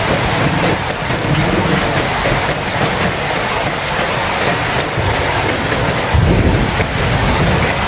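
Steady heavy rain, with a low rumble of thunder underneath that swells about six seconds in.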